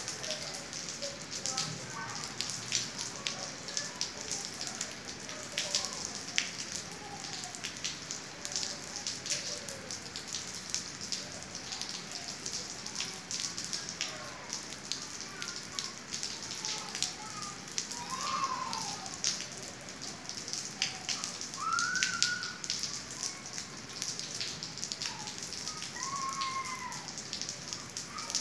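Steady rain falling on a tiled patio and roof, a continuous hiss dense with the patter and splash of individual drops. A few short rising-and-falling tones sound in the second half.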